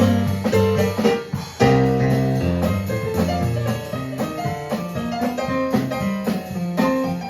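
Live band music with no singing: keyboard playing melody and bass notes over a drum kit.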